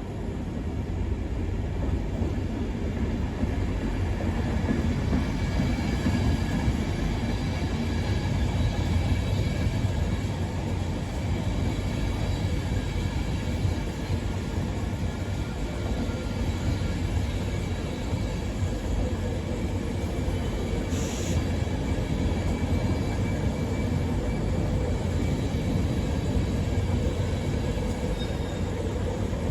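Train running, a steady low rumble with faint whining tones above it, and a short high hiss about two-thirds of the way through.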